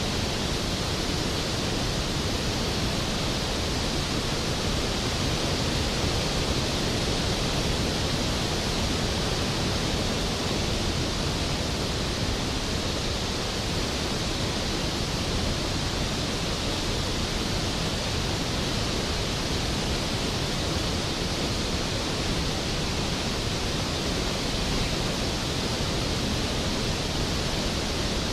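Skógafoss waterfall, a large single drop of water: a steady, dense rush of falling water with no change.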